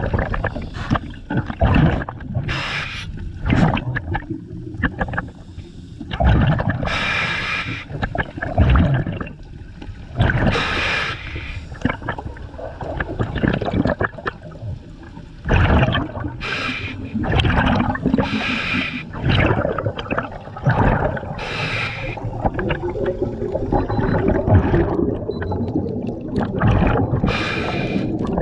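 Scuba diver breathing through a regulator underwater: a hissing inhalation every few seconds, with bubbling, gurgling exhalations between them.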